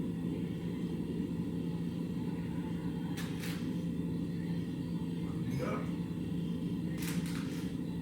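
Steady low rumble with a constant hum, broken by two short hissing sounds, about three seconds in and again near the end.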